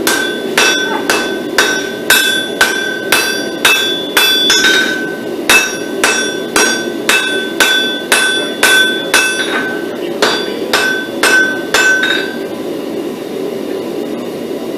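Blacksmith's hammer striking hot pattern-welded steel on an anvil, about two blows a second, each with a bright ring. The blows pause briefly about five seconds in and stop about twelve seconds in, over a steady low rushing noise.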